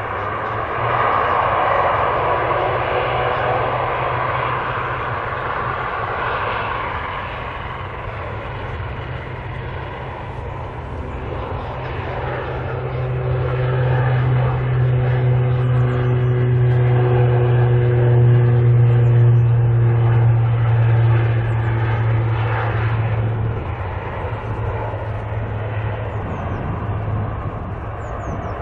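Turboprop airliner's engines and propellers giving a low, steady hum. The sound grows to its loudest about two-thirds of the way through, then eases off.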